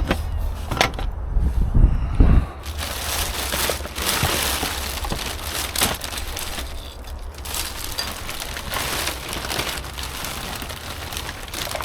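Hands rummaging through rubbish: a run of crinkling, crunching and knocking from bags, packaging and broken items being moved about, with a low rumble in the first couple of seconds.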